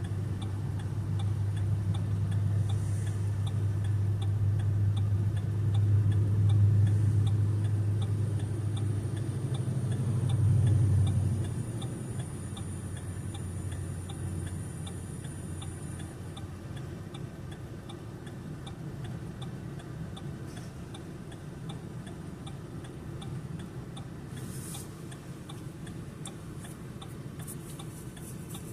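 A car's turn-signal indicator ticking steadily, a few clicks a second, over the low drone of the engine and road. The drone is louder in the first part and drops off about eleven seconds in, as the car slows.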